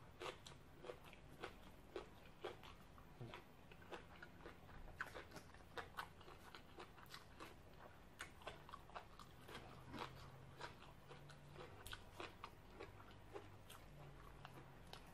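Close-up chewing of crisp green papaya salad: a steady run of small, wet crunches, roughly one or two a second.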